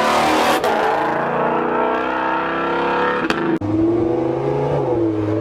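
Car engine running loudly, its pitch drifting up and down as it revs. The sound breaks off sharply about half a second in and again about three and a half seconds in, after which a steadier, deeper engine note carries on.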